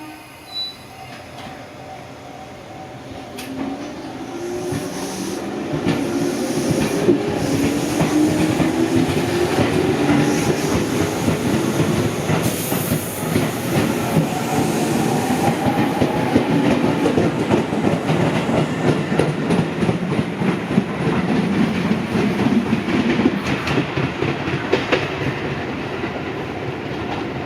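A train getting under way and passing: a motor tone rising steadily in pitch as it picks up speed, with wheels clattering over rail joints. It grows louder over the first several seconds.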